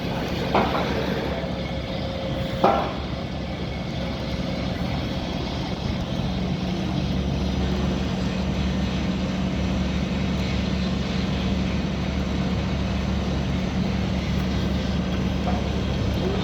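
Heavy diesel engine of site machinery running steadily, growing louder about six and a half seconds in, with two sharp knocks in the first three seconds.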